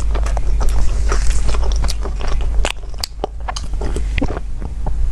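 Close-miked chewing of a mouthful of bread, with wet mouth clicks and smacks. It thins out after about two and a half seconds into quieter gulps as a drink is sipped from a glass.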